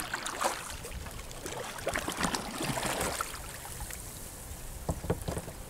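Kayak paddle strokes in calm water: the blade dipping and water trickling and dripping off it, with irregular splashes over the first three seconds, then a couple of short knocks or splashes near the end.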